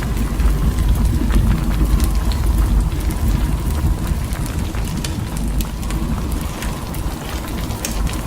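Storm wind rumbling hard against the microphone in a blizzard, with a steady scatter of small ticks over it.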